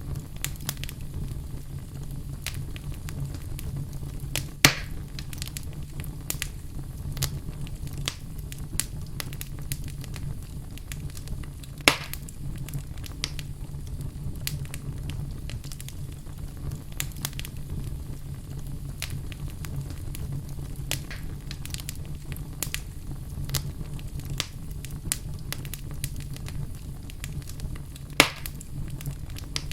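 Wood fire burning in a fireplace: steady crackling with frequent small snaps over a low rumble. Three louder pops come about 5, 12 and 28 seconds in.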